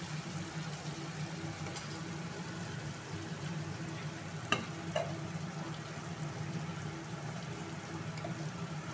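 Ground spice paste and turmeric frying in oil in an aluminium kadai, a steady sizzle over a low steady hum, with one sharp tick about four and a half seconds in.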